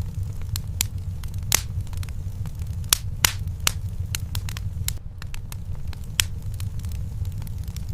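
Wood fire in a fireplace crackling: irregular sharp pops and snaps, sometimes two close together, over a steady low rumble.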